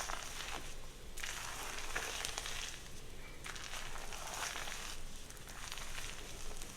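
Hair being worked close to the microphone in long strokes, a crackly rustling that swells and dips about once a second.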